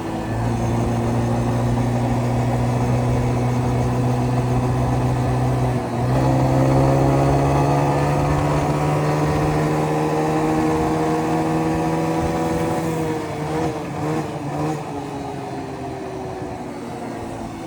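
Small ATV engine running under throttle while riding. Its pitch jumps up about six seconds in and climbs slowly, then drops and wavers as the throttle eases off from about thirteen seconds.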